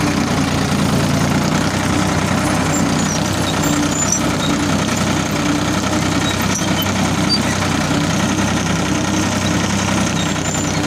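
Ford 3600 tractor's three-cylinder engine running steadily.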